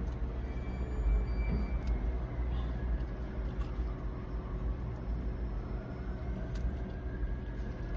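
Steady low rumble of a running vehicle engine, with one short click late on.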